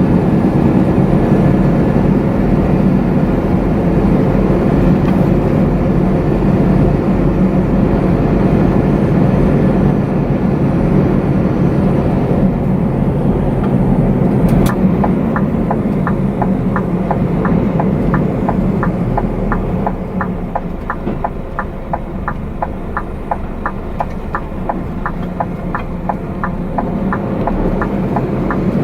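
Scania truck running on the road, a steady low engine and road rumble that eases off a little past the middle. About halfway through there is one sharp click, then a steady ticking at about three a second.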